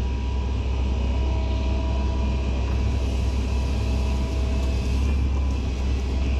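Heavy diesel engine running steadily with a constant low rumble.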